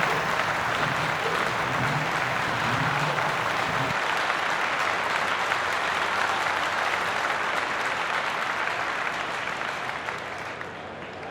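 Crowd applauding and cheering, dying away near the end.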